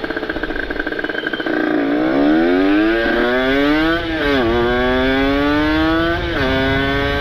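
Kawasaki Ninja RR single-cylinder two-stroke with a ported engine and an aftermarket exhaust, pulling away and accelerating. The engine climbs in pitch and drops back at three upshifts, rising again after each.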